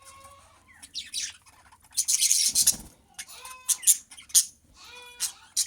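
Budgerigars chirping and chattering in quick, scratchy calls, with a louder harsh burst of calling about two seconds in.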